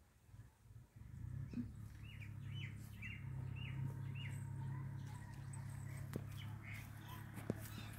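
A bird calling in a run of about five short chirps, roughly two a second, with a few fainter chirps after, over a low steady hum.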